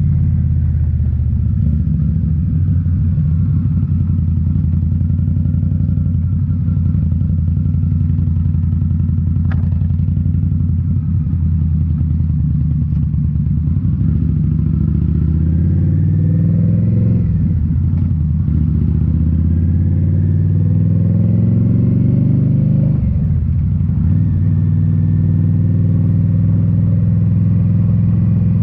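2018 Indian Scout Bobber's liquid-cooled V-twin running through Rinehart slip-on mufflers while riding: mostly steady cruising, with the revs climbing twice in the second half and dropping sharply after each climb as it shifts up.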